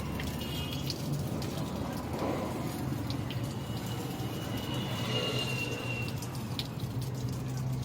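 Steady low mechanical hum with scattered light clicks; a faint high thin whine comes in for a few seconds in the middle.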